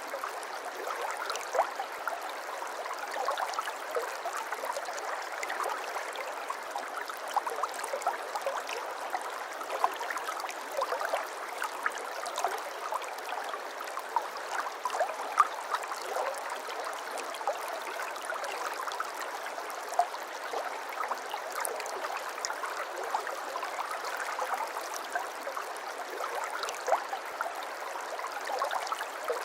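Shallow stream water running and babbling steadily, full of small trickling splashes with no low rumble.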